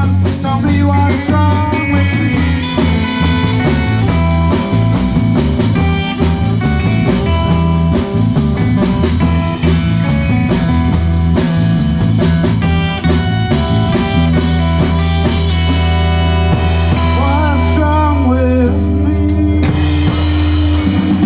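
Live rock band playing with electric guitar, bass guitar and drum kit, loud and dense, with a pulsing bass line. Near the end the bass settles into a held note.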